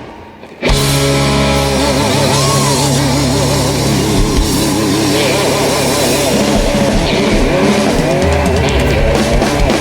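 Live blues-rock band music. After a brief near-gap at the start, the band comes back in with a loud sustained chord, and a held line with heavy vibrato wavers over it.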